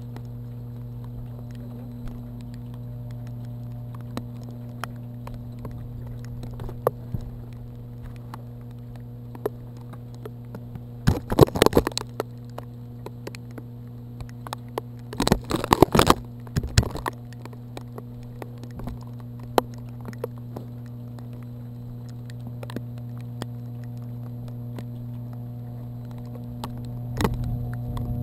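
Rain pattering on the camera as scattered light ticks over a steady low hum, with two louder spells of rapid rattling clicks about 11 and 15 seconds in.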